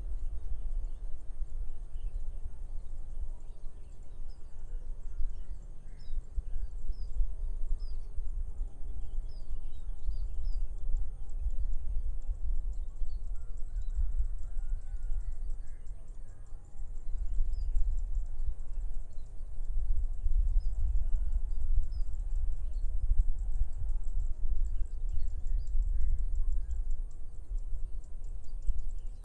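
Rice-field morning ambience: gusty wind rumbling on the microphone, with faint, scattered short bird chirps and a steady high-pitched hiss behind.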